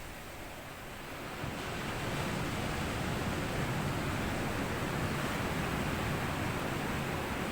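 Sea waves breaking and washing over a sandy beach. The surf swells about a second and a half in and carries on as a steady wash.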